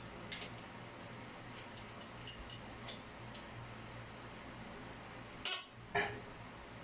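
Light clinks and taps of small hard parts being handled over a steady low hum, with two louder knocks about five and a half and six seconds in.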